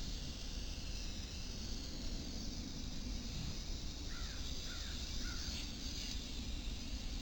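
A bird calling three times in quick succession, short arched caws about half a second apart, over steady outdoor background noise.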